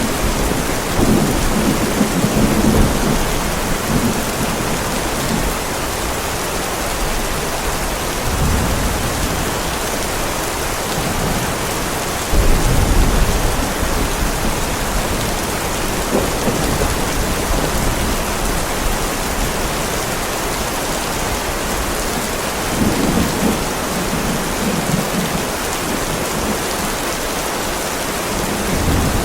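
Heavy rain falling steadily on a driveway, with low rolls of thunder swelling and fading several times; the strongest rumble comes in a little before halfway.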